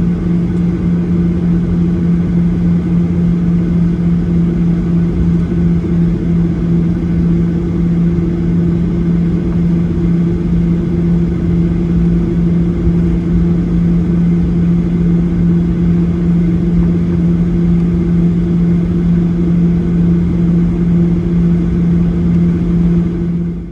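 Jet airliner taxiing with its engines at low thrust: a steady hum over a low rumble that does not change.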